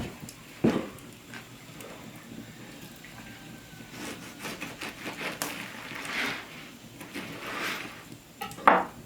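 Cookware and utensils being handled: a sharp knock shortly after the start, several seconds of scraping in the middle, and a louder clunk near the end.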